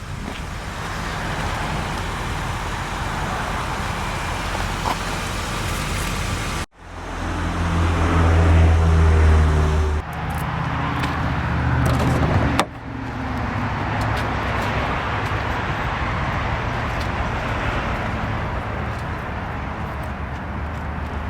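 Road traffic noise: a steady rush of passing cars with a low hum. For a few seconds around the middle, a heavier vehicle's engine swells up louder. The sound breaks off abruptly twice.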